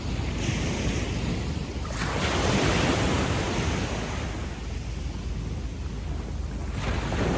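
Slow sea waves on a sandy beach, washing up and back: one wave swells about two seconds in and fades away, and another rises near the end.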